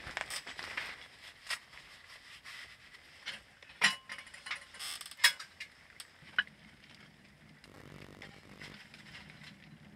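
Scattered clinks and knocks of small hard objects being handled, with a few sharp metallic clicks, the loudest about four and five seconds in, followed by a faint low hum near the end.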